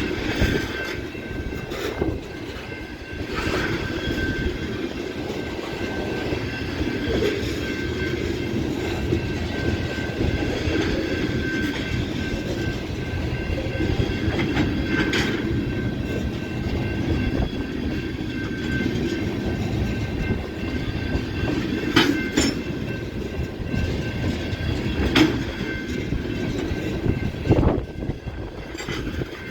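Freight train cars rolling past: a steady rumble of wheels on rail with a thin, steady high squeal, broken by a handful of sharp clacks spaced several seconds apart.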